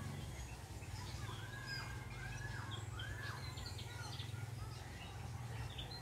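Wild birds calling in the trees: a few arched whistled notes that rise and fall, with scattered short high chirps, over a steady low background hum.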